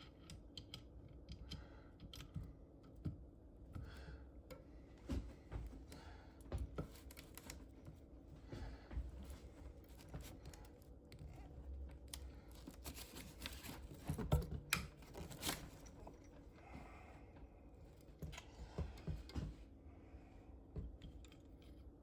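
Irregular light metallic clicks and taps of a valve spring compressor and hand tools working on a bare cylinder head while the valve springs are compressed and their retaining clips fitted, with a louder run of knocks about two-thirds through.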